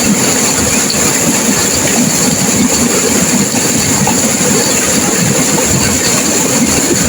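River water rushing and crashing through rapids, a loud, steady roar of turbulent flow.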